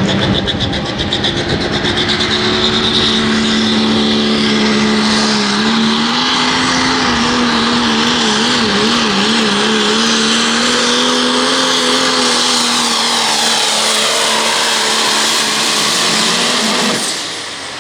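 Pro stock diesel pickup truck at full throttle pulling the sled down the track: a loud, steady engine note with a high whine above it. The note wavers from about eight to ten seconds in, then the engine throttles back near the end.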